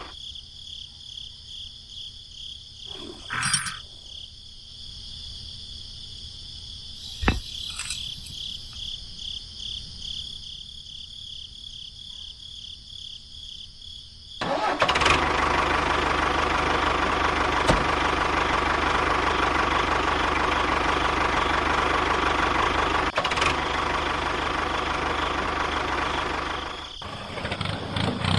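A faint steady whine with a couple of sharp clicks, then about halfway through a motor starts suddenly and runs steadily and much louder, dropping away near the end.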